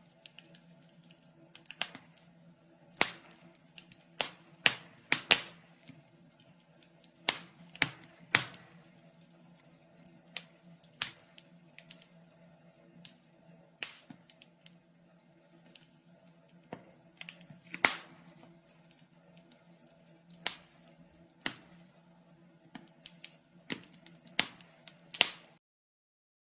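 Fireplace fire crackling: irregular sharp pops and snaps, a few every couple of seconds, over a faint steady low hum. The sound cuts off near the end.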